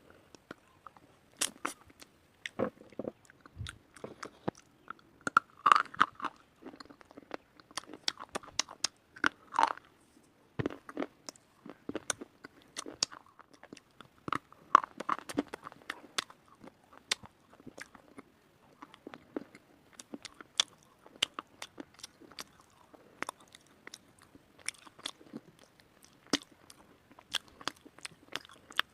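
Close-up crunching and chewing of white slate: a person biting into the hard, chalky stone and grinding it between the teeth, with many sharp irregular cracks and crunches.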